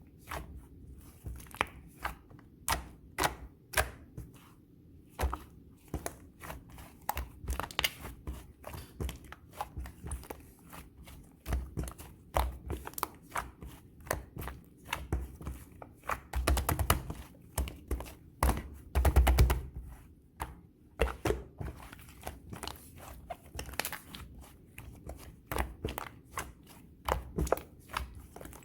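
Light purple slime being squeezed and pressed by hand, giving irregular sticky clicks, pops and squelches, with a denser run of louder pops a little past the middle.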